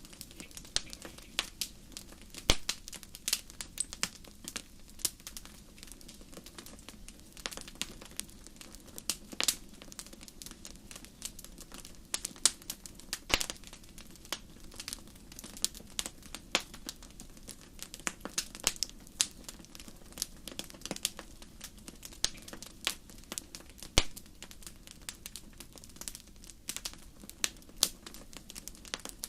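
Wood fire in a fireplace crackling, with frequent irregular sharp pops and snaps over a steady low background.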